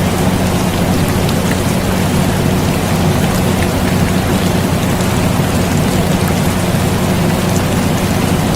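Steady air conditioner hum with a low drone, mixed with rain falling in a continuous hiss with scattered drop ticks.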